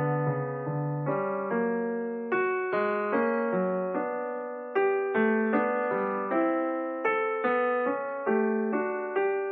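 Background piano music: a slow melody of single notes, each struck and then fading, a few notes a second.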